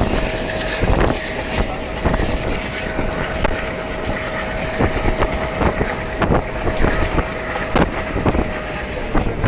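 A vehicle running: a low rumble with a steady hum held on one tone, and irregular sharp knocks throughout.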